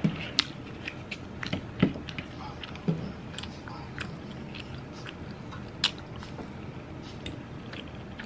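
Close-miked eating: chewing and mouth sounds of spicy instant noodles with avocado, with a handful of sharp clicks and smacks scattered through.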